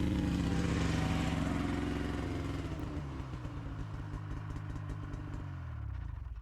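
Snowmobile engine running, its note easing lower and its level fading over the second half, then cutting off abruptly at the end.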